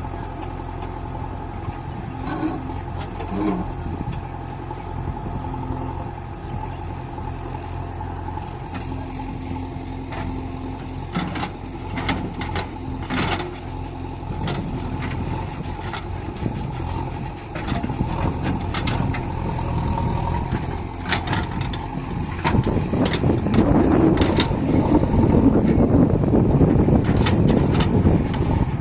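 JCB backhoe loader's diesel engine running steadily, with repeated sharp knocks and clatter of stone being loaded into a tipper trailer. The engine and clatter grow louder over the last several seconds.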